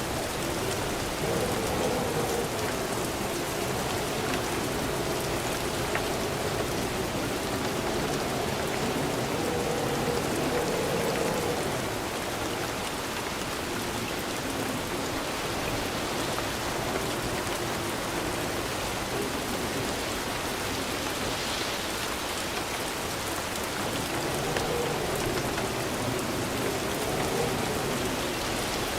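Steady, even rain falling and pattering on surfaces, with no thunder.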